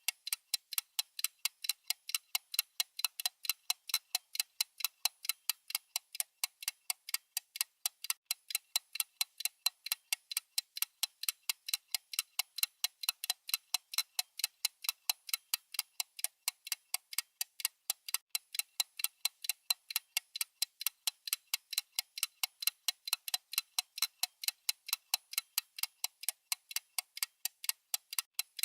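Clock-style ticking sound effect of a countdown timer: sharp, evenly spaced ticks keeping a steady pace.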